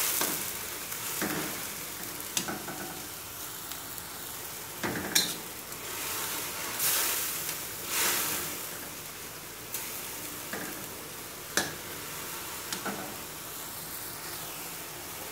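Sliced bitter melon sizzling and bubbling in a shallow layer of seasoned water and oil in a steel wok, a steady hiss. A metal spatula stirs through it, scraping and clicking against the wok now and then, and stops near the end.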